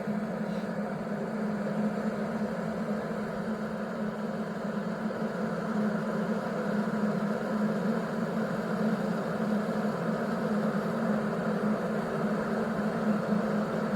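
SUSTEAS 1500 W stainless steel electric kettle heating water, making a steady low rumbling as the water works up toward the boil.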